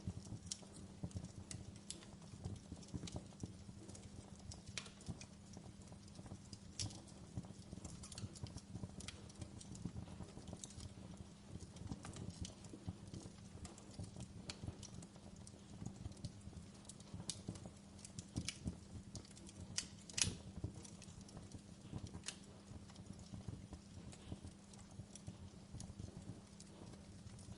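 Wood fire burning in a fireplace, crackling with irregular sharp pops over a steady low rumble and hum. One pop about twenty seconds in is louder than the rest.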